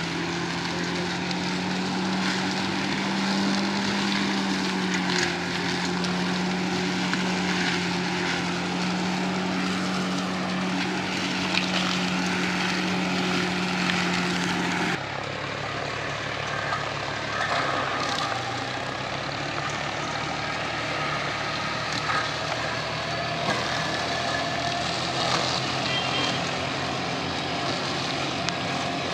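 Tractor engine running steadily, its pitch rising slightly and settling back early on. About halfway through, the sound changes abruptly to a different, thinner engine sound.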